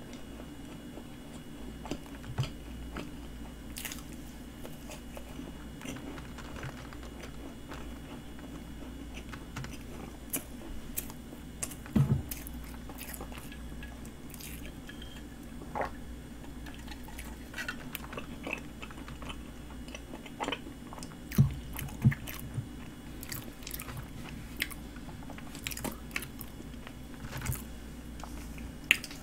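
Close-miked chewing of a flaky cream-filled pastry horn: soft wet mouth sounds with scattered small crunches and clicks, a few louder ones a little before halfway and again about two-thirds through.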